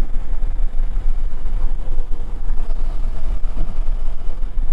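Wind rumbling on a helmet microphone over the steady noise of a motorcycle being ridden through traffic.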